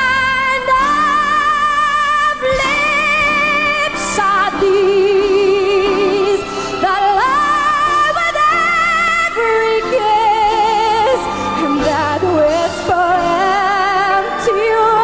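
Female voice singing a ballad without clear words, sustained notes with wide vibrato and gliding runs, over instrumental accompaniment.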